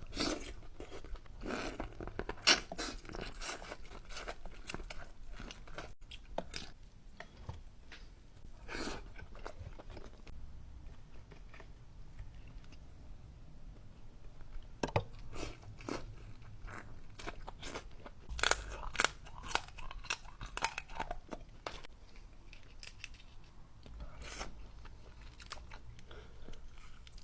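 Close-miked chewing and crunching of a person eating a seafood boil with lobster, with scattered crisp bites and wet mouth sounds.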